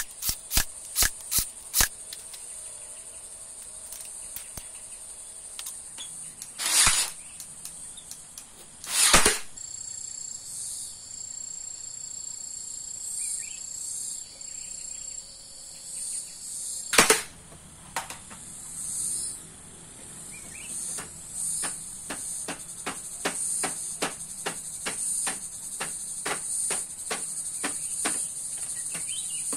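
Steady high-pitched insect chorus, with a string of sharp knocks or taps over it. There is a quick run of them near the start, a few louder ones in the middle, and a regular tapping about twice a second in the last third.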